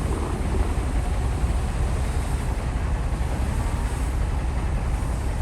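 Shantui bulldozer's diesel engine running steadily with a deep, even rumble.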